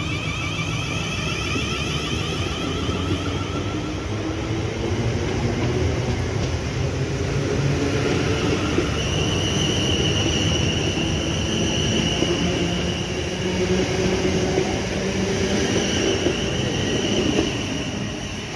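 Train running through the station: a steady heavy rumble with slowly shifting engine or motor tones, and a high steady whine that comes in about halfway through and fades near the end.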